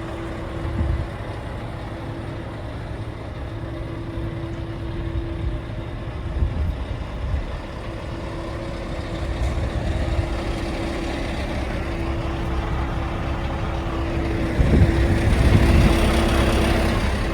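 Scania R580's 16-litre V8 diesel engine idling with a steady low rumble, getting louder for a couple of seconds about fifteen seconds in.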